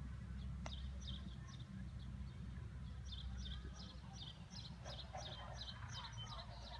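A small bird chirping over and over in short, high notes, about three a second, over a steady low rumble.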